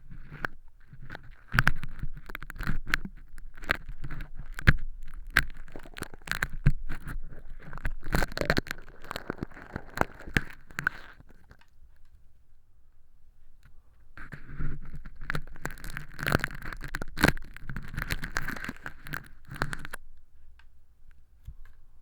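Crisp crackling and scraping of fake earwax made from crinkly holographic film, picked at and peeled off inside a silicone ear model. The crackles come in two dense spells with a pause of about three seconds between them.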